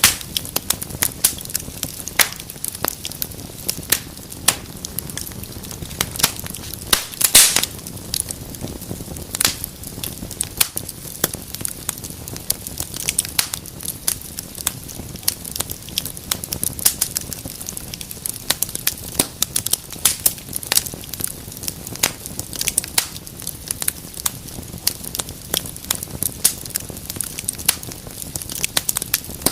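Wood fire burning in a fireplace, crackling steadily with frequent sharp pops over a low hiss, and a quick run of louder pops about seven seconds in.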